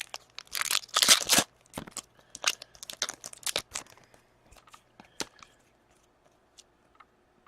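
Foil wrapper of a hockey card pack torn open and crinkled, followed by scattered clicks and rustles of cards being handled; the crinkling is loudest in a burst around the first second and a half, and it goes quiet a few seconds before the end.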